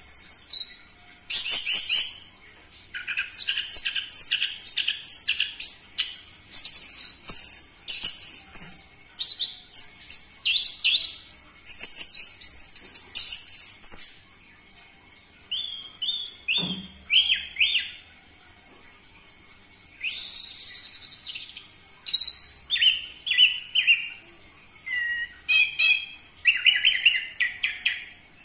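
Orange-headed thrush singing a loud, varied song of rapid whistled and warbled notes, delivered in phrases a few seconds long with short pauses between them.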